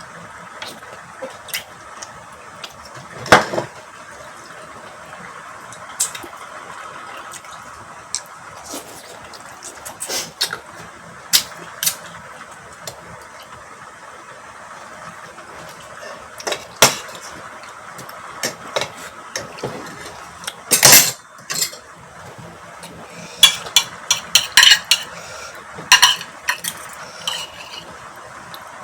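Spoon and fork clinking and scraping against bowls and plates while eating, in irregular single clinks with a quick flurry of them near the end.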